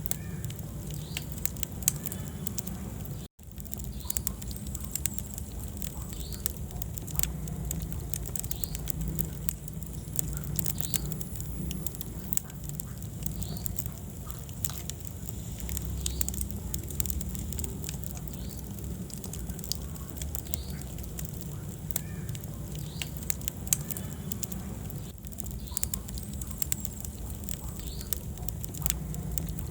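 Wood fire burning in a fireplace: steady low rumble of the flames with irregular crackles and a few louder pops. The sound drops out for an instant about three seconds in.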